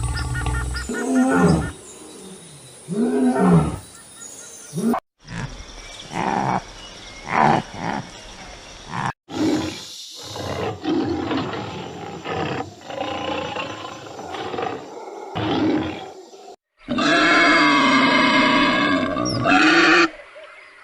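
Calls of several different wild animals in short clips cut one after another, with roars among them. The loudest is a long, strongly pitched call in the last few seconds.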